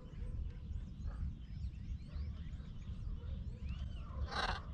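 Animal calls: many high, thin chirps and whistles, with one louder, harsher call about four seconds in, over a steady low rumble of wind.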